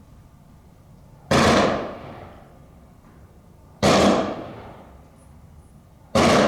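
Three rifle volleys of a funeral honors salute, each a sharp crack with a trailing echo, about two and a half seconds apart; the third comes near the end.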